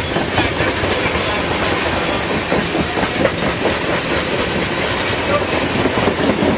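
A train rolling past at close range, a steady rumble with a continual run of wheel clicks over the rail joints.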